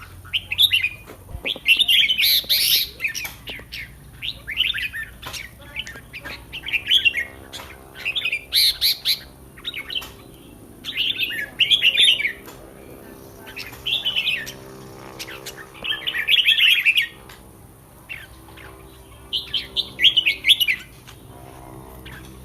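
Caged red-whiskered bulbul singing: a string of short, bright warbled phrases, each under a second, with brief pauses between them.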